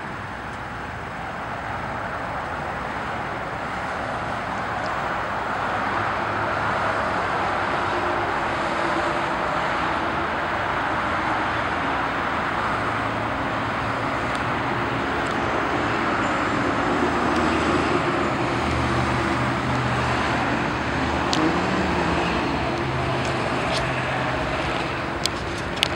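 Steady car road noise, tyres and engine heard from a moving vehicle, building up a little over the first few seconds, with a few sharp clicks near the end.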